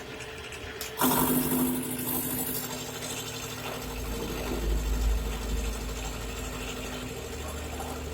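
Kawasaki Ninja 150 two-stroke engine, bored up to 155 cc, starting about a second in and running steadily, with a brief rise in revs around the middle.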